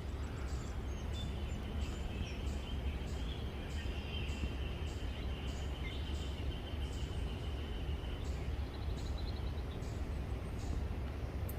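Outdoor pond ambience: a steady low rumble of wind on the microphone, with short high chirps repeating two or three times a second and a thin, steady high-pitched whine from about a second in until about eight seconds in.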